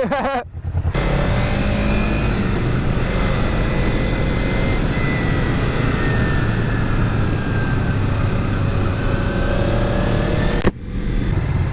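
Kawasaki Ninja 300's parallel-twin engine running while the motorcycle is ridden at speed, under heavy wind rush on the helmet microphone. The engine note drifts slowly up and down, and the wind noise drops off sharply near the end.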